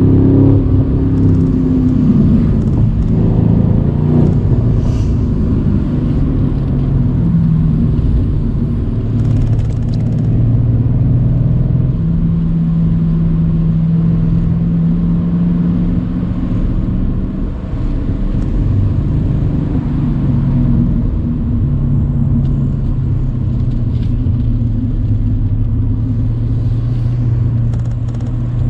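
Mercedes-AMG C63's 4.0-litre twin-turbo V8 running while the car cruises on a country road with the roof down. The engine note holds steady for long stretches, shifting in pitch with throttle and gears, and dips briefly a little past halfway.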